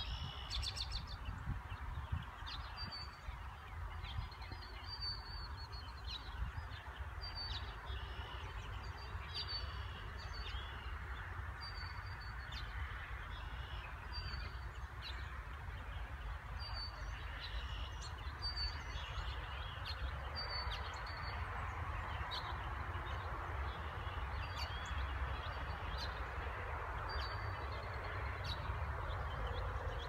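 Wild birds singing, one repeating a short high call about every two seconds, over a steady low rumble.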